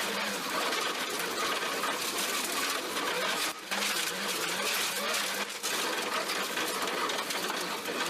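Subaru Impreza GC8 rally car running at speed. A dense rattling noise of stones and road covers the engine, which is heard only faintly, and the sound drops out briefly twice.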